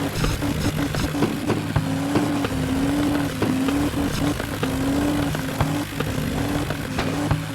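Mahindra tractor diesel engines running hard under load in a tractor tug-of-war. A strong steady engine tone wavers in pitch about once a second, over a dense clattering background.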